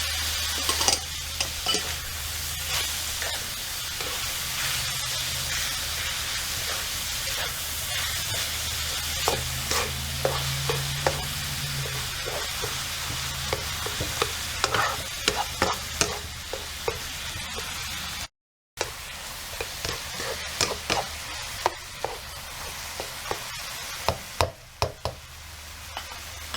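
Ground pork and garlic filling sizzling as it fries in oil in a pan, with frequent short clicks and scrapes of a spatula against the pan as it is stirred. The sound cuts out for a moment about two-thirds of the way through.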